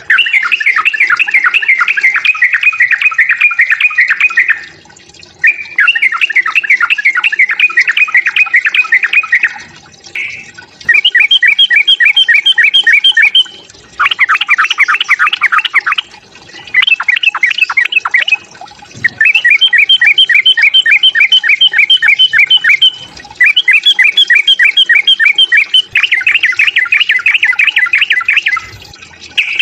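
Yellow-vented bulbul giving its fighting song: loud phrases of fast, rapidly repeated chattering notes, each lasting two to four seconds, with short pauses between them.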